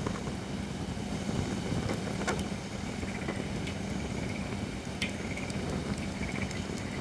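Holly-wood campfire burning in a fire pit: a steady low rumble of flames with sharp crackling pops, one a little over two seconds in and another about five seconds in.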